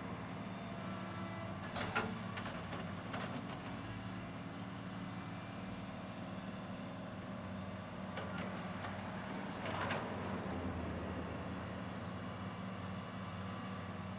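Diesel engine of a Cat excavator running steadily while digging, with a few sharp knocks, the loudest about two seconds in and another near ten seconds.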